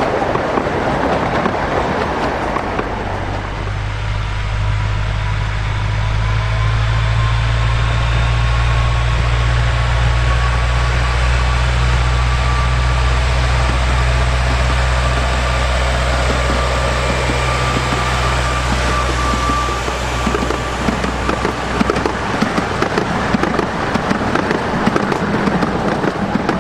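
Narrow-gauge diesel train passing. It opens with the rattle and rumble of coaches running over the rails, then the locomotive's diesel engine drones steadily with a faint, slowly rising whine. About 21 seconds in, the drone fades and the coaches clatter past again.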